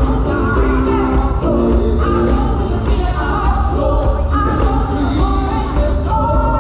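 Live music: a choir singing over band accompaniment, with a heavy, steady bass underneath.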